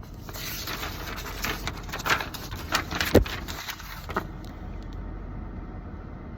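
Several short clicks and one sharper knock about three seconds in, over a steady low background noise.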